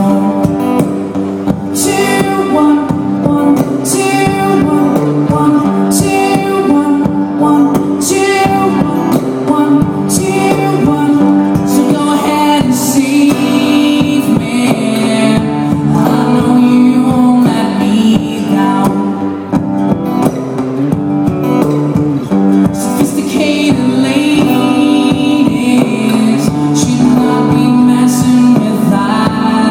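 A rock band playing live: singing over guitars, with no breaks.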